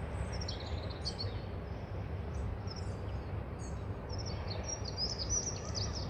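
Small birds chirping in short high calls, busiest about five seconds in, over a steady low outdoor rumble.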